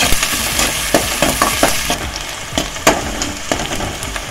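Chopped onion and garlic sizzling in hot oil in a metal pan, being sautéed until browned, with a spoon stirring and scraping against the pan in repeated sharp clicks. The sizzle eases a little about halfway through.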